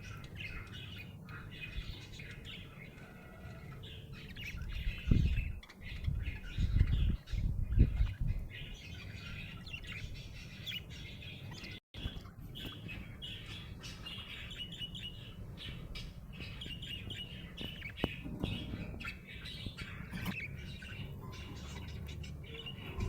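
Budgie chirping busily, with a brief break about twelve seconds in. A few low rumbling thuds, the loudest sounds here, come between about five and eight seconds in.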